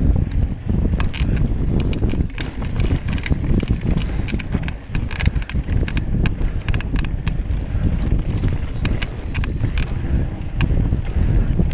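Mountain bike riding down a dirt trail: wind buffeting the microphone over a steady tyre rumble, with frequent sharp clicks and rattles from the bike over bumps.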